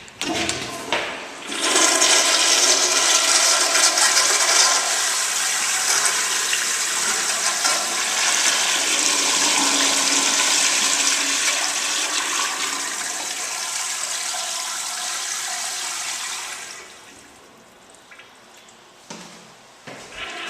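Mid-1990s American Standard toilet flushing: a couple of short knocks, then a loud rush of water starting about a second and a half in that runs steadily for about fifteen seconds before dropping away fairly quickly.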